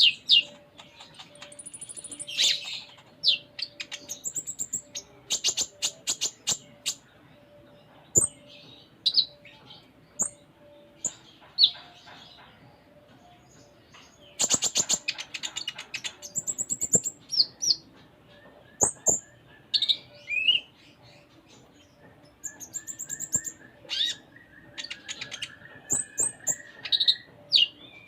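Kolibri ninja (konin) sunbird singing a busy, varied song of quick high chirps and short trills, with a run of rapid clicking notes about halfway through and buzzy rattling phrases in the later part.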